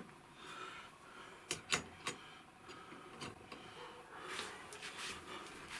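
Handling noises from work with tools on a wheelchair's rear wheel: three short sharp clicks about a second and a half in, with rustling and scraping before and after.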